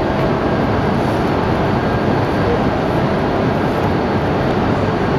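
Steady mechanical hum and rush from shinkansen trains as an E6 series Super Komachi creeps slowly up to couple with a standing E5 series Hayabusa, with faint steady tones and no coupling clunk yet.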